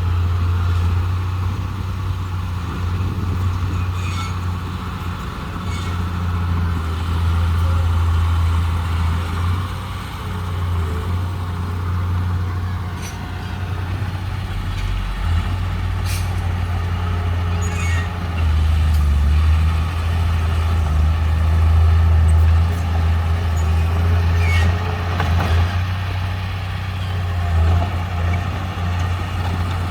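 Heavy diesel earth-moving machinery running under load, a steady deep engine drone that swells and eases, with several sharp metallic clanks scattered through it.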